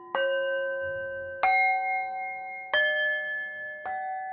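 Meditation background music of struck, bell-like chime notes: four strikes about a second and a quarter apart, each ringing on until the next.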